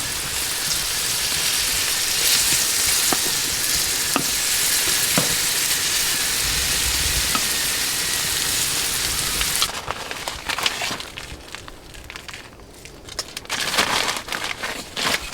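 Food frying in a hot pan: a steady sizzle that stops abruptly about ten seconds in, leaving scattered crackles and small knocks.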